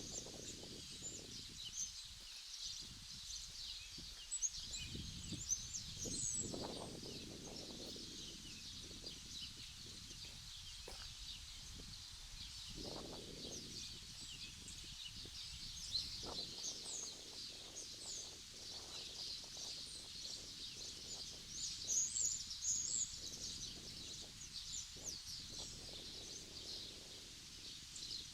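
Outdoor ambience of many small birds chirping continuously in quick, high calls, a few louder ones standing out, over intermittent low swells of noise.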